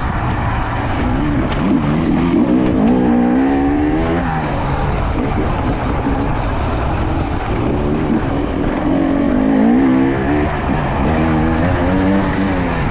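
Two-stroke enduro motorcycle engine revving hard in repeated bursts, its pitch climbing and dropping as the throttle is opened and closed on rough dirt.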